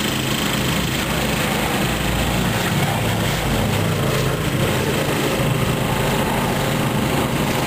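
Piston aero engines of a World War II warbird droning steadily as it flies past at a display, slightly stronger in the middle.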